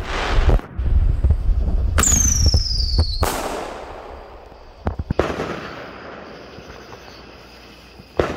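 Consumer fireworks going off: a rushing hiss at the start, then about two seconds in a crack and a whistle that falls in pitch for about a second, ending in a loud bang. A few quick pops follow near five seconds, and another sharp bang comes near the end.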